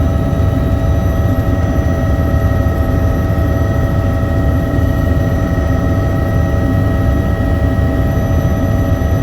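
Helicopter in flight: a steady engine whine at several pitches over a low, constant rotor rumble.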